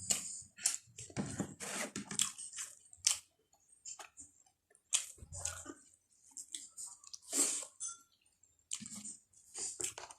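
A person chewing a mouthful of pork and rice close to the microphone, in irregular short bursts with brief pauses.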